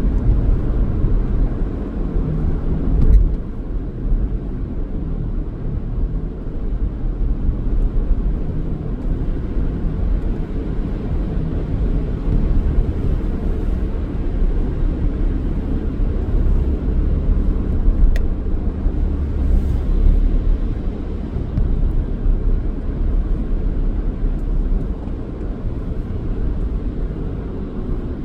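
Car driving: steady engine hum and road rumble, with a brief knock about three seconds in.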